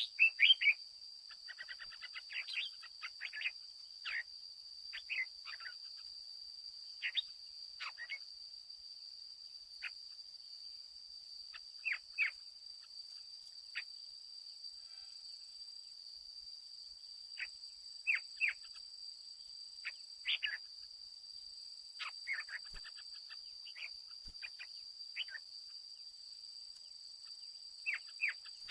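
Red-whiskered bulbul giving short, sharp chirps and brief song phrases at irregular intervals, over a steady high-pitched whine.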